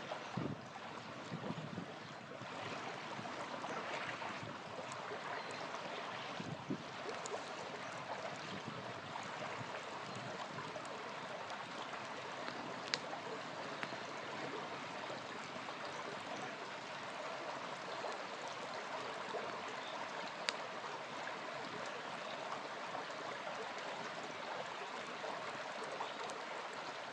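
A small river flowing steadily, with a few sharp pops from a crackling campfire.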